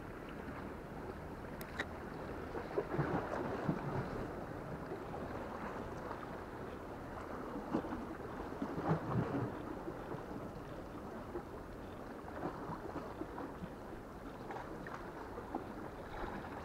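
Sea water lapping and sloshing against concrete breakwater blocks, with wind on the microphone and a few scattered small clicks and knocks.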